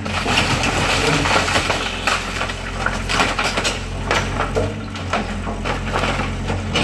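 Excavator demolishing a wooden garage: dense crunching, cracking and clattering of breaking timber and debris over a steady low engine hum.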